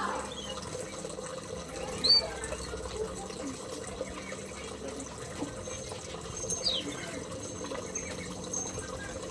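Small aviary birds chirping: scattered short, high calls, the loudest about two seconds in and a longer falling call near seven seconds, over a steady low hum.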